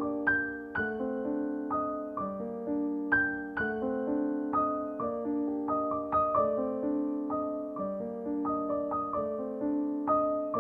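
Background piano music: gentle notes struck one after another, each fading away.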